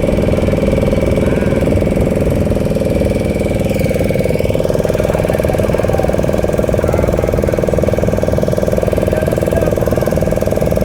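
Motorboat engine running steadily at an even pace.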